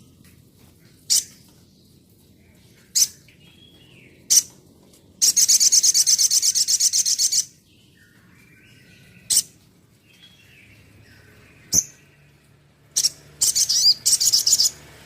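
Sunbird calls: single sharp, high chirps every second or few, a fast, high trill lasting about two seconds, and near the end a quick run of chirps and trilling.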